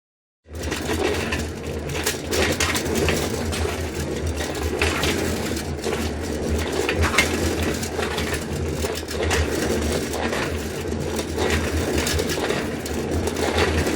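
A trolley rolling: a continuous rumble of its wheels with a dense rattle and clatter from its frame, starting suddenly about half a second in.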